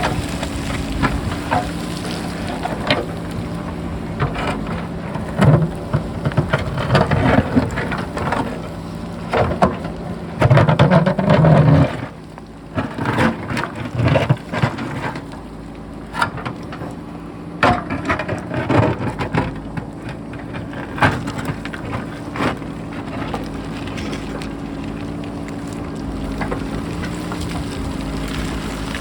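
JCB backhoe loader's diesel engine running steadily while rocks and soil clatter and tumble down a rocky hillside in dense, irregular bursts, heaviest through the middle, with wind on the microphone.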